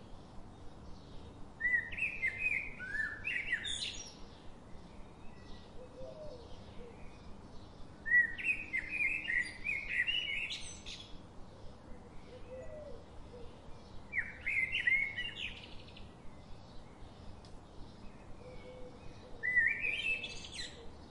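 A songbird singing four similar phrases of quick rising and falling notes, each two to three seconds long and ending in a fast upward sweep, coming about every six seconds over faint steady background noise.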